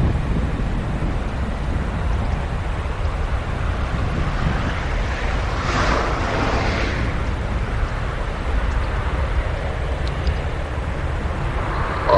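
Wind buffeting the microphone: a steady low rumble, with a louder rushing gust about six seconds in.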